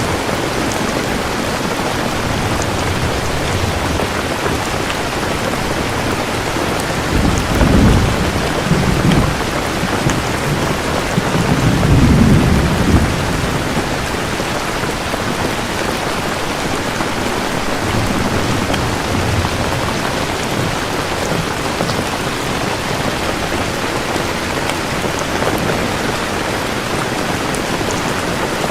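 Steady heavy rain falling, with low thunder rumbling twice, about a third of the way in and again a little later, and a fainter rumble past the middle.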